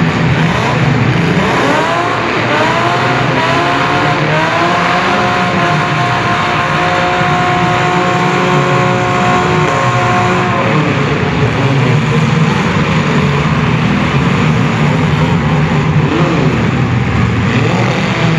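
Several compact cars' engines running hard together. One engine climbs in pitch in repeated short revs, holds a steady high rev for several seconds, then drops away, leaving the mixed drone of the others.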